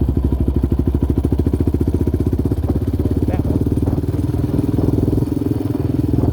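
Yamaha Raptor 700R sport quad's single-cylinder four-stroke engine running steadily while riding, a fast even run of firing pulses, its note shifting slightly about five seconds in.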